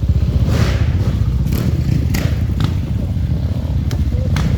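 Enduro dirt bike engine running close by with a steady, deep pulsing, with a few sharp clacks over it.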